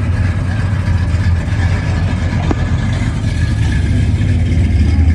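A car engine running close by, a deep steady exhaust rumble with a fast pulsing beat.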